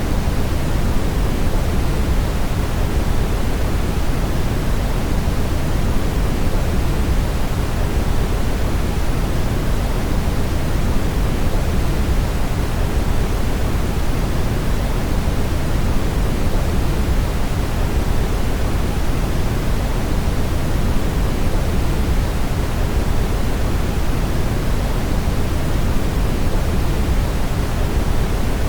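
Brown noise: a steady, even rushing hiss, strongest in the deep bass and falling away toward the treble, with no change or events.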